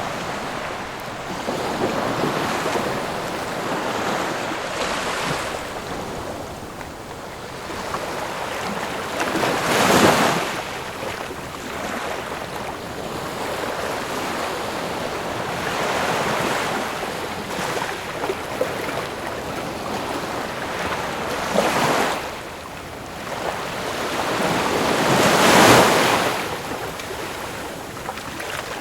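Ocean waves breaking and washing onto a shore in a continuous surging noise. Several waves swell and crash loudest, at about 10 seconds, 22 seconds and 26 seconds.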